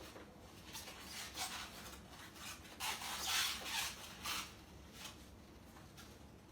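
Hands handling a glass electric kettle and its base, making a series of rubbing and scraping noises that are loudest about three seconds in, then fade.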